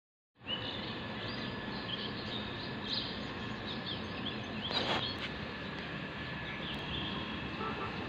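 Birds chirping in many short, scattered calls over a steady background of outdoor noise, with a brief burst of noise just under five seconds in.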